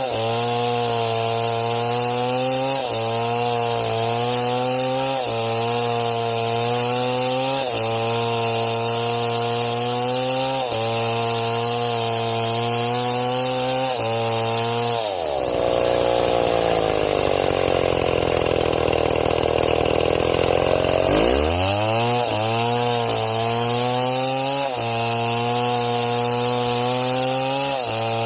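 Chainsaw engine running under load while cutting wood, its pitch dipping briefly every couple of seconds. About halfway through it bogs down deeply in the cut for several seconds, then revs back up.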